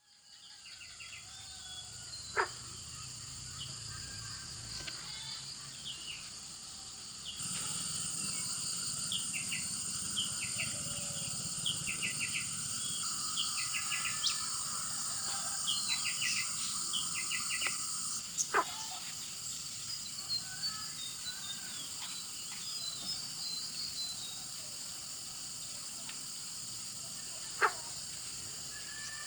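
Outdoor countryside ambience: a steady high insect drone with birds chirping in short repeated bursts, the drone getting louder about a quarter of the way in. Three sudden sharp clicks stand out, near the start, past the middle and near the end.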